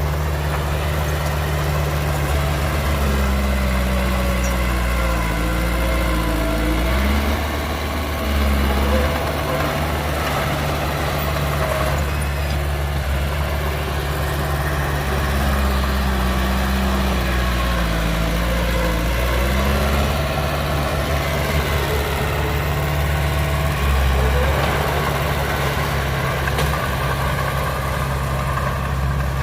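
Heavy diesel engine of earthmoving machinery running steadily, its pitch shifting twice as the engine works under changing load.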